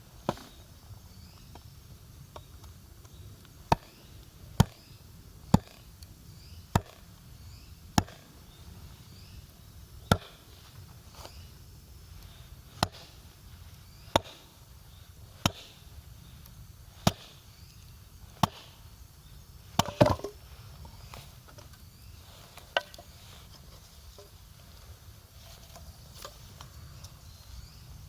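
Wood campfire crackling, with sharp pops and snaps from the burning wood coming irregularly every second or two and a quick cluster of snaps about two-thirds of the way through.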